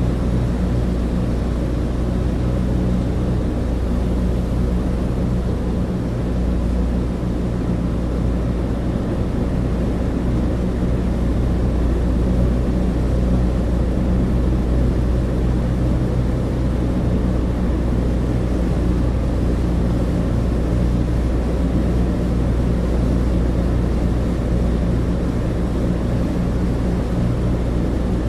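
Douglas DC-3 cabin interior: the steady drone of its twin radial piston engines and propellers, several low steady tones under an even rushing noise.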